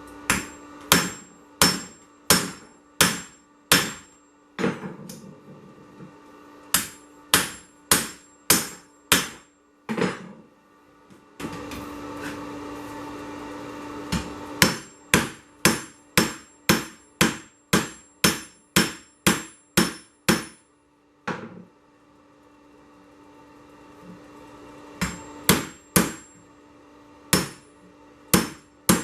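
Hand hammer striking hot 1085 carbon steel on an anvil in runs of evenly spaced blows, about three every two seconds, each with a high ringing note, during rough forging of a corkscrew body and tang. Between the runs there are short pauses, and around the middle there is a steady hiss for about three seconds. A low steady hum sits underneath.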